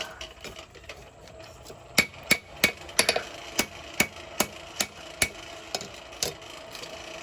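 Hand hammer striking a hot bar of 5160 steel on an anvil while forging a knife blade's point. A few light blows at first, then from about two seconds in a steady run of sharp, ringing strikes, about two to three a second.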